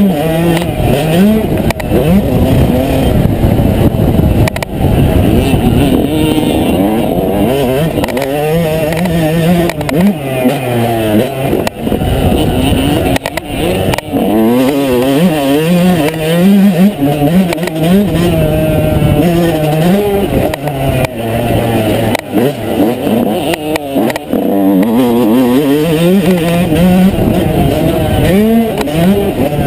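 Two-stroke motocross bike engine being ridden hard, its pitch climbing under throttle and dropping off again every second or two as the rider accelerates, shifts and backs off for corners.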